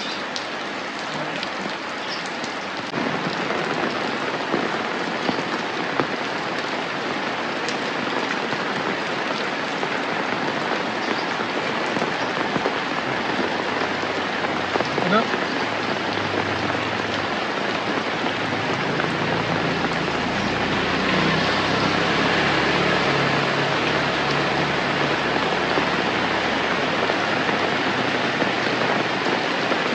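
Steady rain falling, a dense hiss with scattered sharp drop ticks, growing slightly heavier about two-thirds of the way through.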